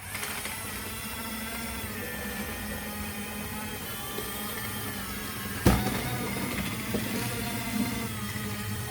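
Small electric motor of an RC truck whining steadily, with a sharp knock about five and a half seconds in and lighter knocks later.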